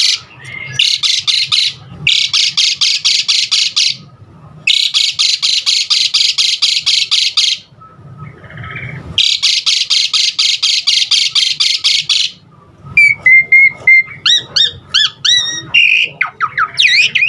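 Asian pied starling (jalak suren) singing: four bursts of rapid, evenly repeated harsh chattering notes, each a second and a half to three seconds long, then, from about two-thirds of the way in, a run of whistled notes sliding up and down.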